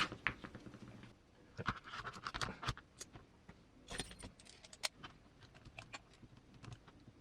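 Small hand tools and hardware being handled on a workbench: scattered light clicks, clinks and scrapes, some in quick clusters.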